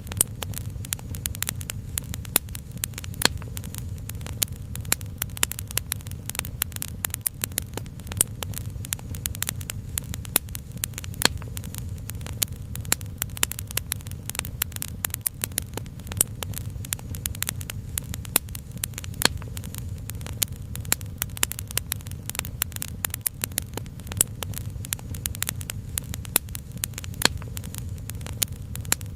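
Crackling fire: dense, irregular pops and snaps many times a second over a steady low rumble.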